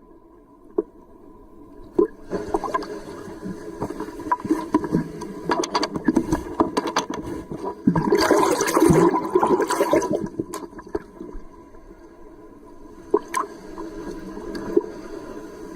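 Ocean water sloshing and gurgling around a camera in the surf, with scattered sharp knocks and bubbly clicks. About eight seconds in, a louder rush of churning water lasts for about two seconds.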